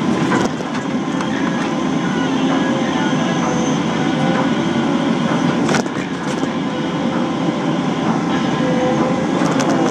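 Caterpillar 325 hydraulic excavator running steadily while digging, its diesel engine and hydraulics making a dense rumble, with short metallic knocks about half a second in, around the middle and near the end.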